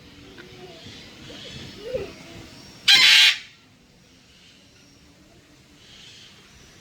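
A bird's single loud, harsh squawk lasting about half a second, about three seconds in, over low background chatter and faint calls.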